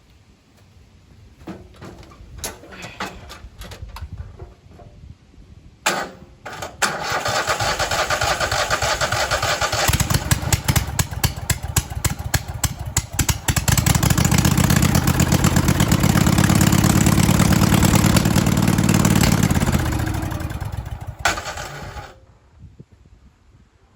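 Twin-cylinder engine on a racing lawnmower cranked over, catching after a few seconds and running loud and steady for several seconds before it winds down and stops.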